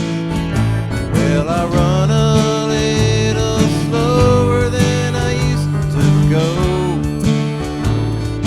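Country music: acoustic guitar accompaniment under a lead melody line that slides between notes.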